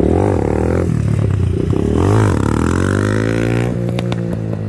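Pit bike engines revving as the bikes ride past, the pitch swelling and falling twice and then climbing steadily before easing off, with a few light clicks near the end.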